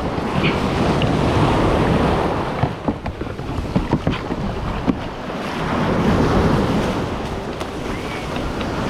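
Ocean surf breaking and washing, with wind buffeting the microphone; a few sharp knocks sound in the middle.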